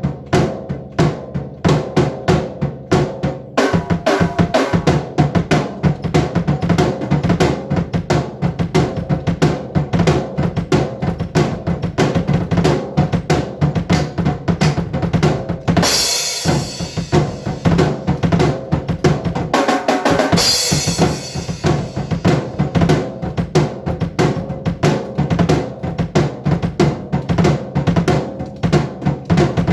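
A drum kit played in a fast, busy pattern of rapid drum strikes, with two loud crashes about halfway through.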